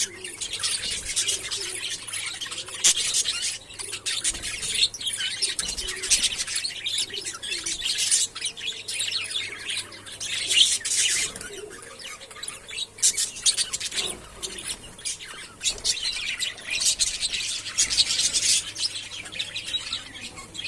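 A flock of budgerigars chattering, many birds chirping and warbling over one another without pause.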